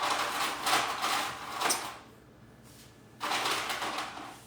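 Two bursts of rattling clatter, the first about two seconds long, the second about a second long after a short pause.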